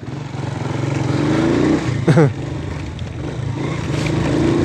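Motorcycle engine running on the move, rising in pitch twice as it accelerates, with a short falling sound about two seconds in.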